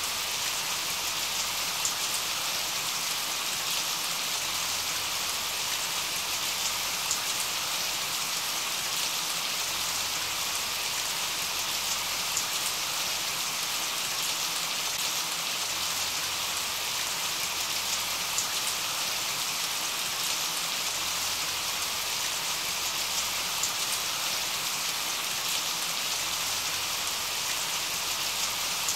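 Steady rain falling: an even hiss with fine drop ticks scattered through it.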